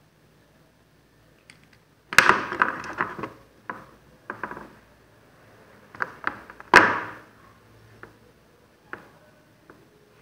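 Hand tools and small parts handled on a work surface: irregular clicks and knocks, with a burst of clattering about two seconds in and a louder knock near seven seconds.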